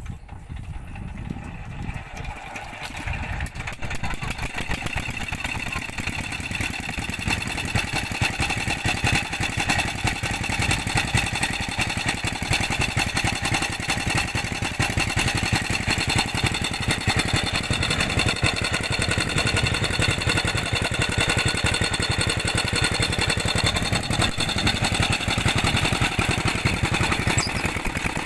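Peter single-cylinder diesel engine driving a tube well pump. It runs with a rapid, even beat that grows louder over the first several seconds and then holds steady.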